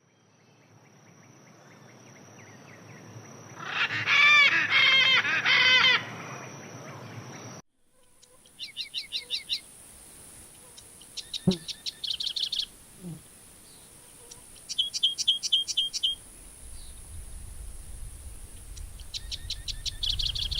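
Wild birds calling. A loud two-second cluster of harsh, arching calls rises over a steady high tone, then breaks off suddenly. After that, a bird repeats quick trilled phrases about four times over a steady high hiss.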